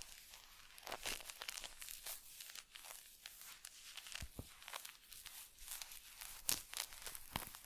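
Close-miked ASMR skincare touch sounds: a dense run of irregular crinkling and crackling, with a louder crackle about six and a half seconds in.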